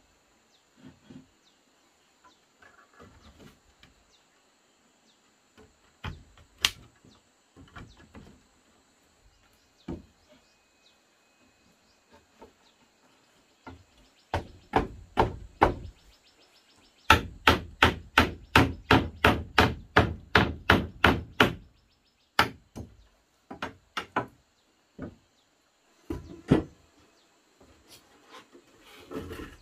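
Blows of a hand tool on wood: scattered single knocks, then a quick run of about a dozen even strikes, roughly three a second, in the middle, followed by a few more single knocks.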